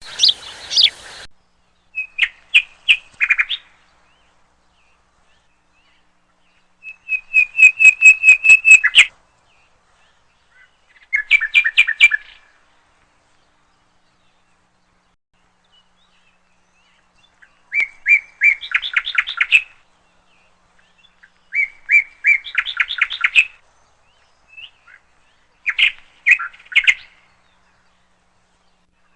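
A songbird singing: phrases of rapid, repeated whistled notes, each lasting one to two seconds, come about every three to five seconds with silence between them. A short burst of noise sounds right at the start.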